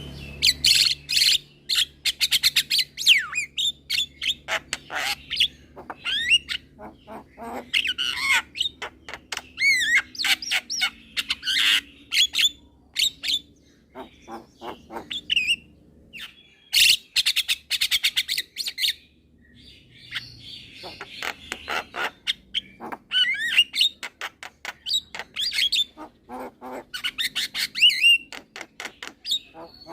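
Young Javan myna singing hard: fast runs of sharp clicks, harsh chatter and quick whistled notes in bursts, with short pauses between them.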